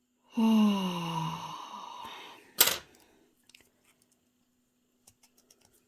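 A person's long voiced sigh, falling in pitch and trailing off into a breathy exhale. About two and a half seconds in there is a single sharp click, followed by a few faint ticks.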